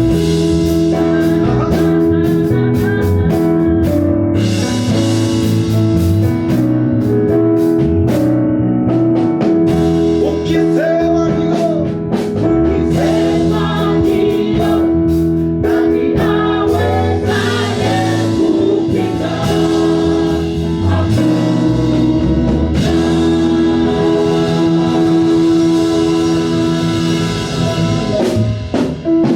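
Gospel praise-and-worship music: voices singing over held chords, guitar and a drum kit keeping a steady beat.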